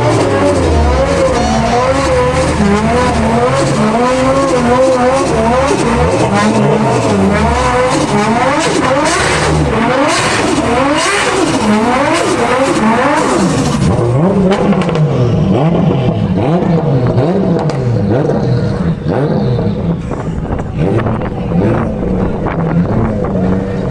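Several car engines revving over and over at once, their pitch rising and falling in overlapping sweeps. A loud hiss sits over them until it drops away about fourteen seconds in.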